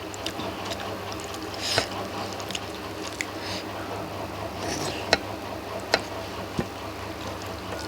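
Wet eating sounds of rice and fish curry being mixed and eaten by hand: soft squishing with several small sharp clicks and a couple of short hissy bursts, over a steady low hum.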